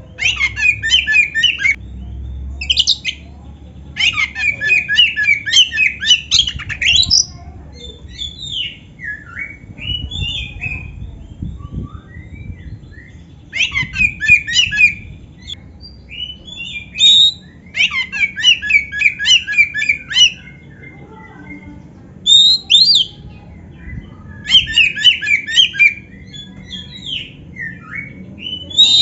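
Oriental magpie-robin (kacer) singing a varied song with canary-style fill-ins: repeated bursts of fast, rattling trills, some about a second long and some running two to three seconds, with scattered whistled notes between them.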